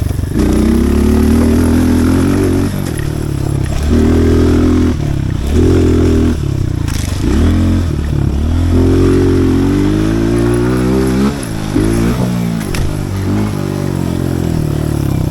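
Pit bike engine revving in repeated bursts as it is ridden. The pitch climbs through each burst of throttle and drops back between them, with quicker blips and dips in the later seconds.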